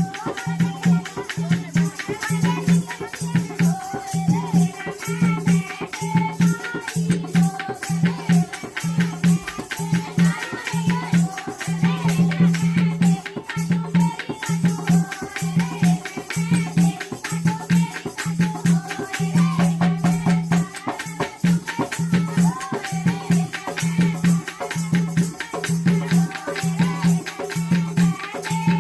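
Jakdi folk music: a steady, rhythmic hand-drum beat with shaken rattle percussion under a wavering melody line.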